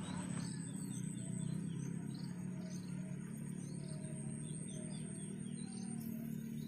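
Small birds chirping in short calls repeated about twice a second, over a steady low drone.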